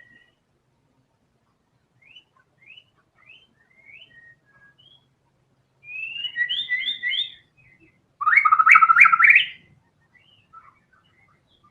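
White-rumped shama (murai batu) singing: a few quick rising whistled notes, then two rapid trilled phrases, the second and loudest about eight seconds in.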